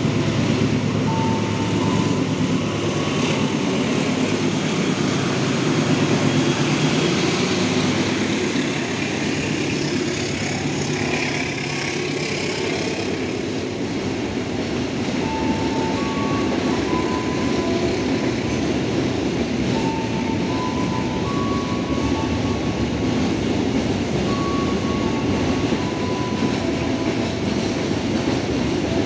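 Freight train of container wagons rolling steadily past, its wheels rumbling and clattering over the rails, with short high squeals coming and going.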